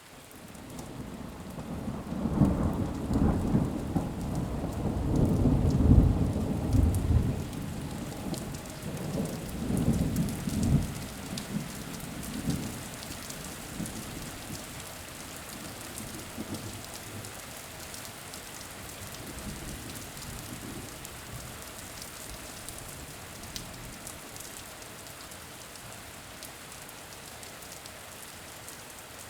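Steady rain with fine patter of drops, and a long roll of thunder that swells from about a second in, rumbles loudest for several seconds, and fades out after about ten seconds, leaving the rain.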